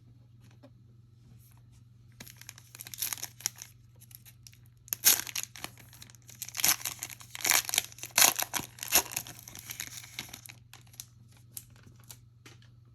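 Trading card pack wrapper being torn open and crinkled by hand: short crackling tears about two seconds in, then a longer, louder stretch of tearing and crinkling from about five to ten seconds in, followed by a few small clicks.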